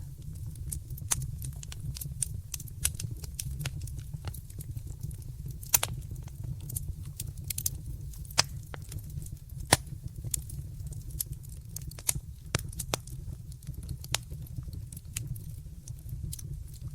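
Wood fire crackling: a steady low rumble of flames under many irregular sharp snaps and pops, two of them louder, about six seconds in and about ten seconds in.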